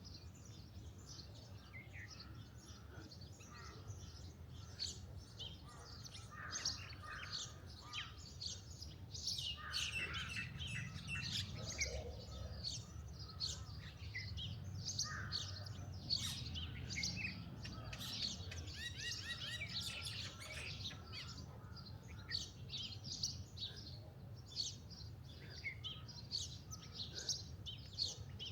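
Many small songbirds chirping and singing at once, with quick overlapping calls and trills throughout, over a steady low background rumble.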